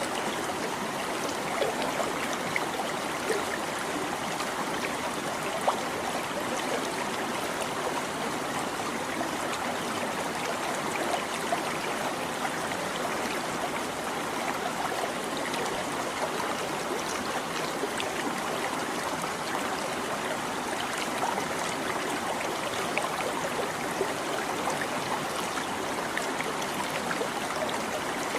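Shallow stream babbling and trickling over rocks, steady, with small splashes and gurgles scattered through it.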